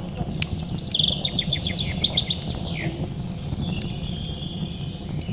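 A songbird singing: a quick run of repeated chirps, a falling note, then a longer held whistle. Under it runs a steady low rumble, with scattered sharp clicks.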